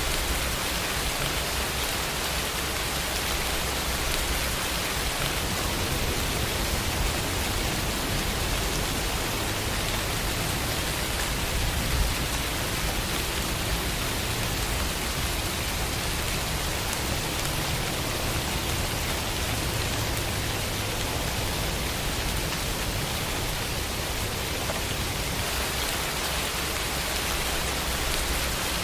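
Steady, even rain falling, with a faint low rumble underneath.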